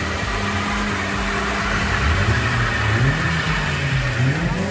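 Car engine revving during a smoky burnout, its pitch climbing and falling as the throttle is worked, with spinning rear tyres.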